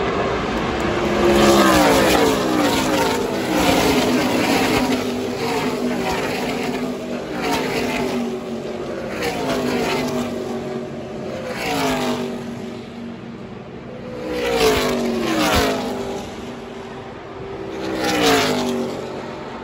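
NASCAR race vehicles' V8 engines passing at full speed one after another, each engine note dropping in pitch as it goes by, about seven passes in a row.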